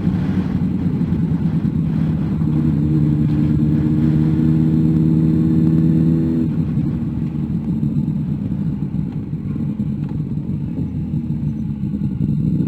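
Car engine heard from inside the car as it pulls out of a left turn, holding a steady note under throttle. About halfway through the note fades as the driver eases off, then rises slightly again near the end.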